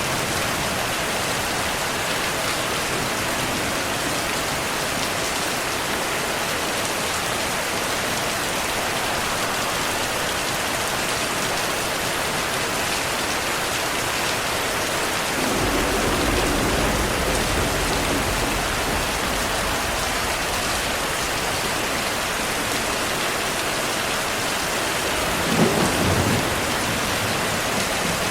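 Steady rain falling, with a low rumble of thunder about halfway through and a shorter, sharper thunderclap near the end.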